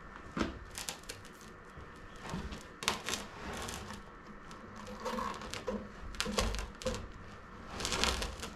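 Irregular clicks, crinkles and short scrapes from hands working with plastic parts, the barrel, pipe and cable ties of a composting-toilet tank being fitted.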